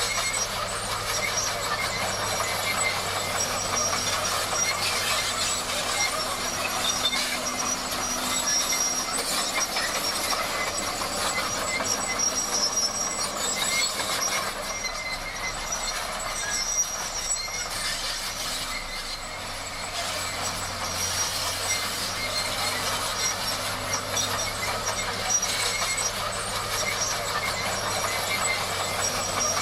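Bulldozer at work: diesel engine running steadily under a continuous metallic clatter from the steel crawler tracks, with thin high-pitched tones coming and going.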